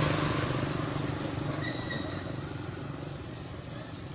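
A passing vehicle's engine, loudest at the start and fading steadily away.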